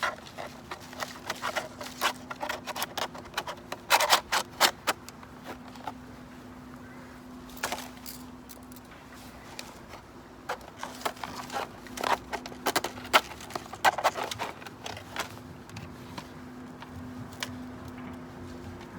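Camping gear being handled: irregular clicks, clinks and light knocks of small hard items, with a steady low hum underneath.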